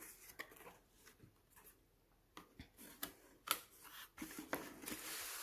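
Packaging being handled and opened: scattered light clicks and taps, then a steady rustle from about four seconds in.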